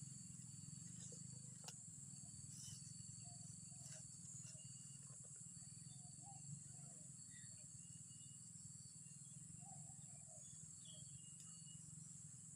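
Faint rural ambience: a steady high insect drone, with soft, low, short coos now and then, in groups, from spotted doves.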